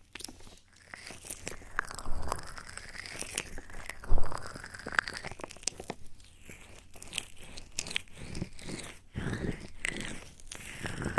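Close-miked ASMR trigger sounds: irregular soft clicks and crackles with no speech.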